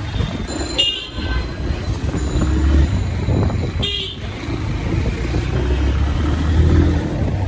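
Steady road and engine rumble from riding in city traffic on a motorcycle, with short horn toots about a second in and again about four seconds in.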